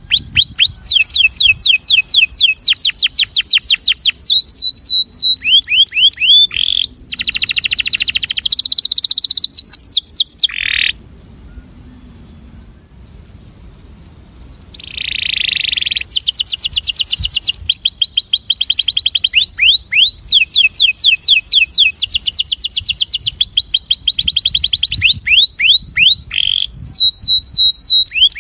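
Male domestic canary singing: fast trills of repeated falling chirps, one phrase after another. A pause of about three seconds comes in the middle, followed by a harsh buzzy phrase before the trills resume.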